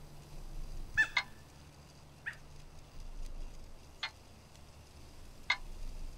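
Short, sharp bird calls, five of them at irregular intervals over a faint low hum.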